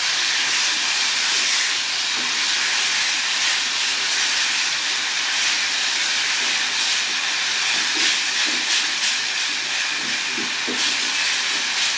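Tomato sauce, paprika and oil frying in a cooking pot, sizzling with a steady hiss.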